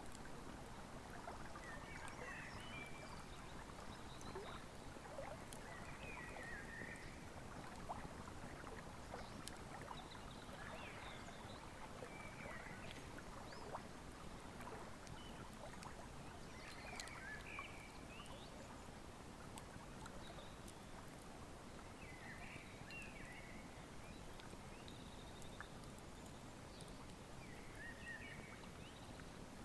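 Wood fire crackling with a river flowing steadily behind it, soft and constant. Short high chirping calls come every few seconds.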